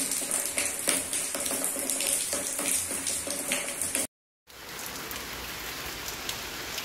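Rain falling, with many separate drops pattering close by. About four seconds in it cuts off briefly, then resumes as a quieter, steadier rain hiss.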